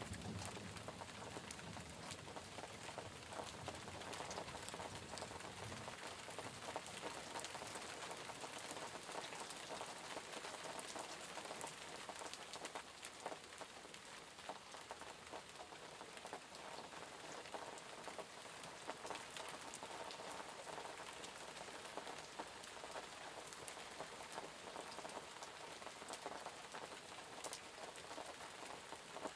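Steady rain falling on a surface, a dense gentle pattering of many separate raindrops.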